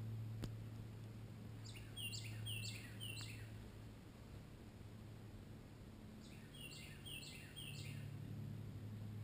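A songbird singing two phrases, each of four quick repeated notes that slur downward, a few seconds apart, over a steady low hum.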